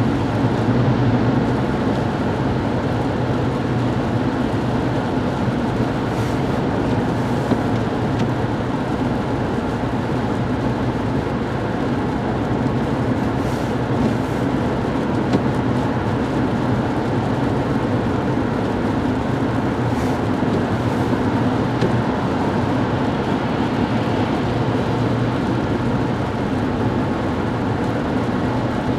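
Steady road noise of a car driving at highway speed on the interstate: a continuous low drone of engine and tyres with an even hiss over it.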